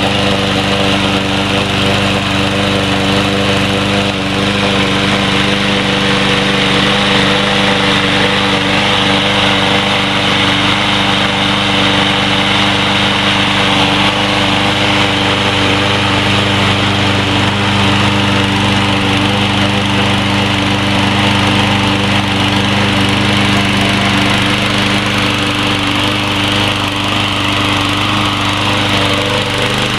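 Troy-Bilt TB230 walk-behind lawn mower's Briggs & Stratton 725 series single-cylinder engine running steadily just after its first start with fresh gas, oil and air filter.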